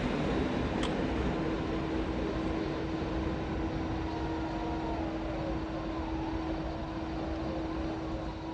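A train running through the station: a steady rumble with a steady hum that sets in about a second in, and one sharp click about a second in.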